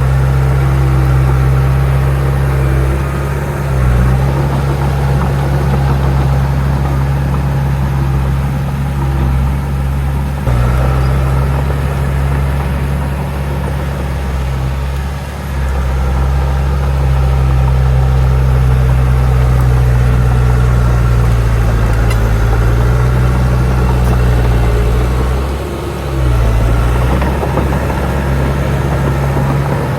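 Heavy earthmoving machine's diesel engine running steadily under load, with a deep drone. The engine note dips briefly a few times, about 4, 10, 15 and 26 seconds in.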